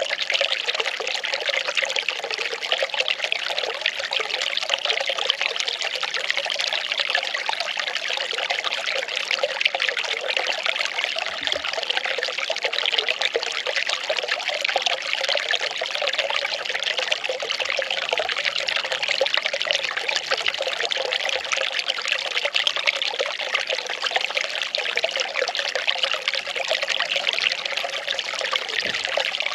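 Well water pouring and trickling steadily in an unbroken splashing stream.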